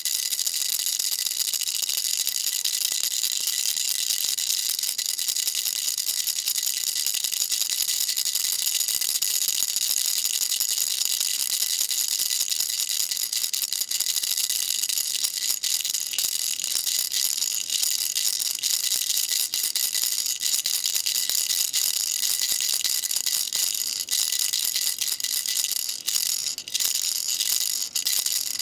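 Baby rattle shaken rapidly and without pause: a dense, bright clatter of small pellets. It breaks off for a moment a few times near the end.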